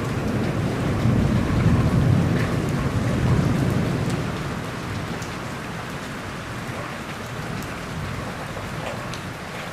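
Steady rain falling during a thunderstorm, with a roll of thunder rumbling through the first few seconds and then fading away.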